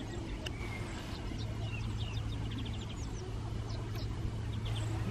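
Small birds chirping and calling, with short quick trills, over a steady low hum.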